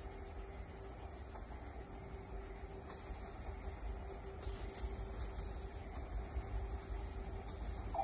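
Faint low rumble of a freight train still far off, hauled by an EF81 electric locomotive, under a steady faint hum and a high hiss.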